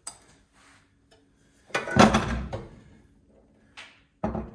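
Metal parts of a gas instantaneous water heater knocking and clattering as it is taken apart by hand. There are a few sharp knocks, and the loudest, a heavier clunk with a short ring, comes about two seconds in.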